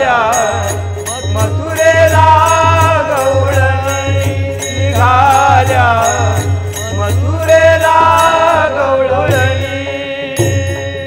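Marathi gavlan devotional music: a wavering melody line over harmonium and pakhwaj, with a steady clinking beat of small percussion.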